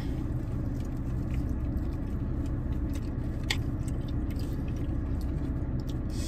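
Close-up chewing and biting of chicken wings during a mukbang, with a few small clicks, over a steady low hum inside the car.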